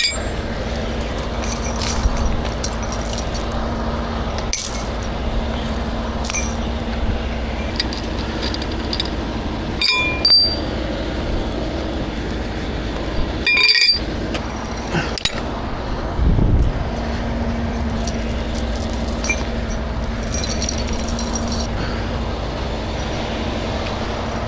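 Truck engine idling steadily, with scattered light metal clinks and rattles from recovery gear being handled. The sound cuts out briefly twice midway.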